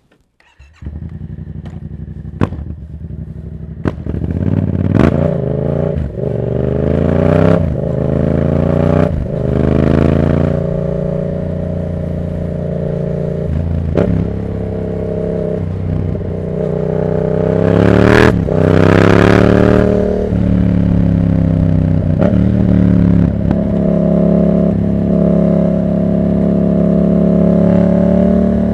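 2024 Yamaha MT-07's 689 cc parallel-twin engine through a Black Widow exhaust with no dB killer, starting up about a second in and then running loud, its revs rising and falling again and again. Brief sharp cracks come between the rises in revs.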